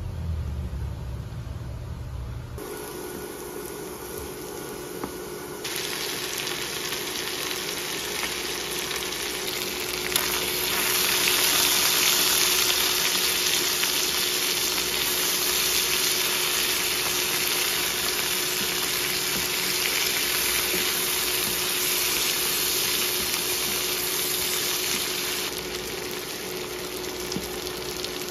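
Chicken pieces and vegetables sizzling in a frying pan on an induction cooktop, with a steady hum underneath. The sizzle grows louder about ten seconds in and eases off near the end.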